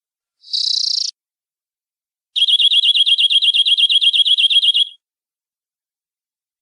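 Domestic canary singing: a short buzzy phrase, then after a brief pause a fast, even trill of about a dozen notes a second that lasts over two seconds and stops abruptly.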